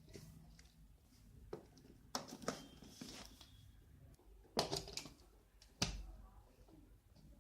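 Power cables being plugged into a connector by hand: scattered clicks, knocks and rustles, the loudest about four and a half and six seconds in.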